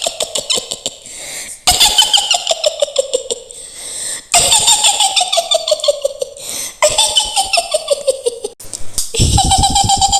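Mak Lampir's high, shrill witch's cackle: a woman's voice laughing in rapid pulses. It comes in about five bursts, each sliding downward in pitch, with short breaks between them.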